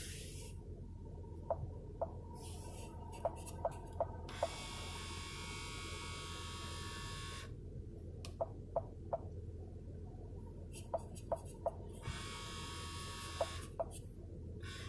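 A failing HVAC vent (blend-door) actuator in a 2015 Ford Explorer Sport's dashboard whines twice, each time for about three seconds, as the temperature setting is changed. Short sharp clicks come between the whines over a steady low hum.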